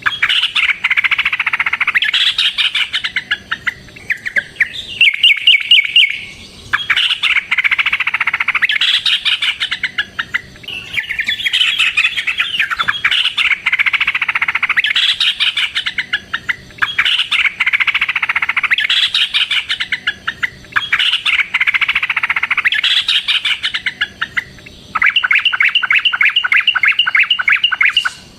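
Yellow-vented bulbul (trucukan) singing loudly in long, busy chattering phrases, one after another with short breaks. About five seconds in, and again near the end, come runs of fast, evenly repeated notes.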